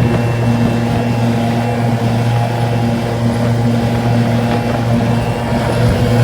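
Small 5 horsepower outboard motor running under way at a steady pitch. It drives a boat at speed with a bronze racing propeller, the motor raised on a jacking plate so the propeller starts to surface-pierce.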